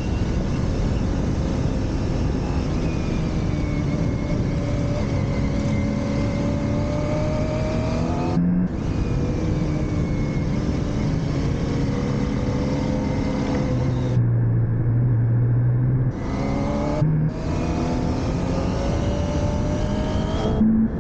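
Motorcycle engine being ridden hard through a course, its revs rising and falling with the throttle, over steady wind noise. It backs off briefly about eight seconds in, settles into a low steady drone for a couple of seconds around fourteen seconds in, then picks up again.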